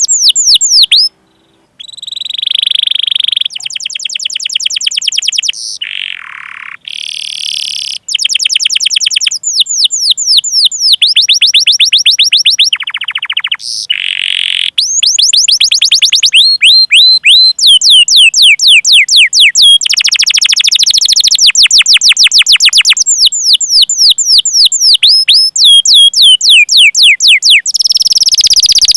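Domestic canary singing a long, fast song of quickly repeated down-sweeping chirps and rolling trills, broken by a short pause about a second in.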